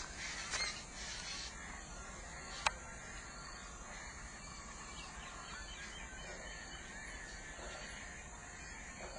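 Birds calling over steady outdoor background noise, busiest in the first second and a half, with one sharp click about two and a half seconds in.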